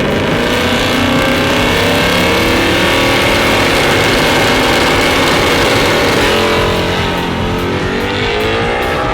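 Ford XW Falcon drag car's engine running loud at full throttle on a drag-strip pass, its pitch bending up and down as it pulls through the gears.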